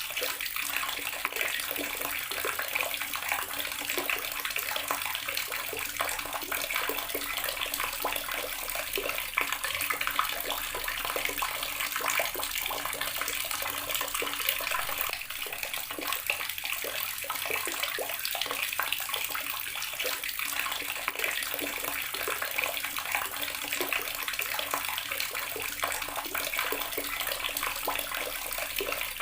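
Outdoor water tap running steadily, the stream splashing and spattering as it lands.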